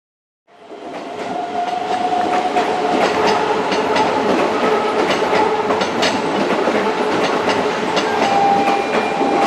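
Electric commuter train running at a station, its wheels clicking over rail joints, with a steady whine on top. The sound fades in about half a second in.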